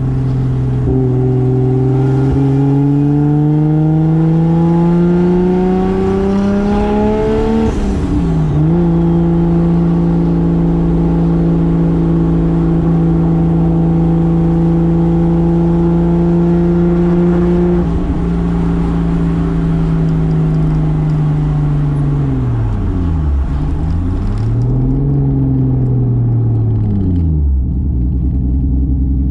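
Single-turbo 2JZ straight-six in a 1995 Toyota Soarer pulling hard, its pitch climbing steadily for about eight seconds before an upshift drops the revs. It then runs at a steady speed for about ten seconds, and as the car slows the revs fall, rise once more and fall again to a low engine note near the end.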